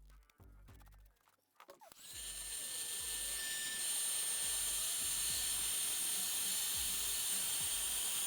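A small electric repair tool runs at a steady high-pitched whine from about two seconds in, with a hissing edge. Faint music with a bass beat plays underneath.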